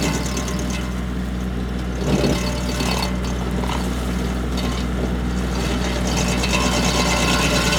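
Tractor engine running steadily while driving a three-point-hitch SG24 stump grinder.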